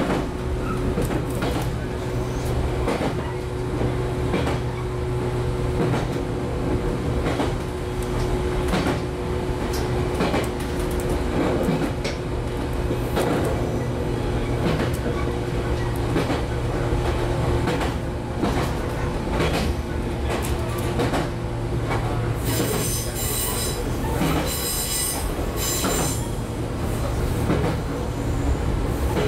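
Running noise inside a JR 115-series electric train motor car: a steady hum with the wheels clacking over rail joints roughly every second. A little over three quarters of the way through come several seconds of high-pitched wheel squeal.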